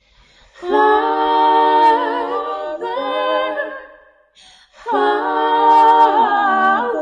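A single voice singing a cappella, drawing out the word "Father" in two long held phrases with a short breath between them about four seconds in.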